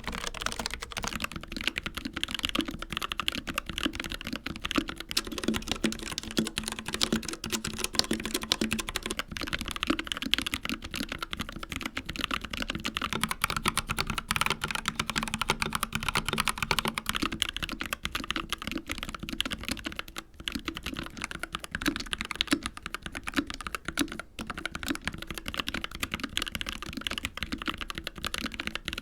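Fast, continuous typing on mechanical keyboards, with the board changing every eight seconds or so. First comes a Logitech MX Mechanical Mini with Kailh Brown switches, then a Royal Kludge H61 Plus with RK Red switches, an Akko 3068B Plus with Akko Jelly Black switches, and near the end a Dark Project KD083A with G3ms Sapphire switches.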